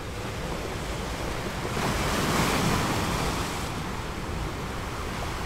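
Sea surf washing on the shore, one wash swelling about two seconds in and ebbing away, with wind noise on the microphone.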